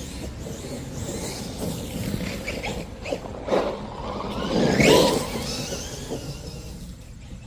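Arrma 2WD RC truck with a 4000kv brushless motor on 3S, driving: the motor whine rises in pitch as it accelerates about three and a half seconds in and is loudest near five seconds, over the noise of tyres on the ground.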